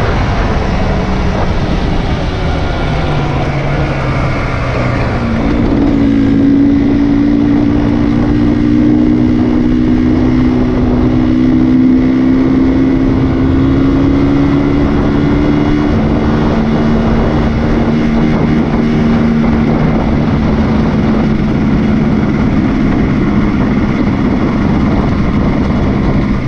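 Off-road motorbike engine running under way, its pitch edging up from about five seconds in and then holding steady, over a heavy rush of noise.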